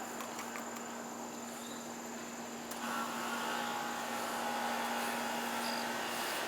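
Steady outdoor insect chorus, crickets among them, over a low steady hum; about three seconds in, a louder steady whine joins and holds.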